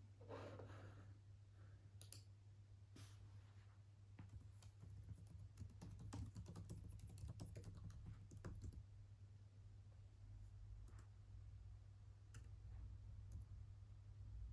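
Faint typing on a computer keyboard: a quick run of keystrokes in the middle, with scattered single clicks before and after, over a low steady hum.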